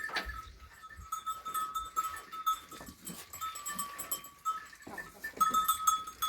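A flock of sheep and goats making soft calls and movement sounds over a thin, steady high tone.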